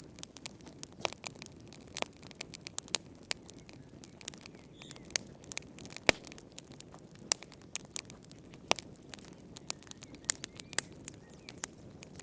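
Wood fire crackling in a fireplace, with irregular sharp pops and snaps over a low steady rush of flame. The loudest pop comes about six seconds in.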